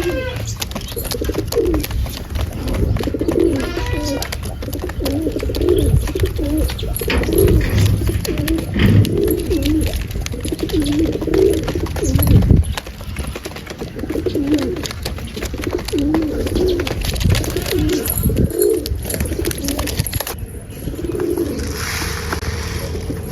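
Pigeons cooing over and over in short warbling phrases, over low rumbling and thumping. A brief rustling hiss comes near the end.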